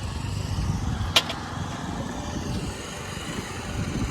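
Low, steady rumble of a motor vehicle engine running, with a single sharp click about a second in.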